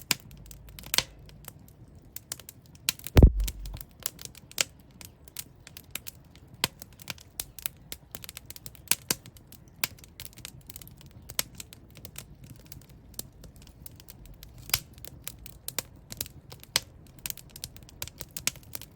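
Wood fire burning in a fireplace: irregular sharp crackles and pops of burning logs over a low hiss, with one louder thump about three seconds in.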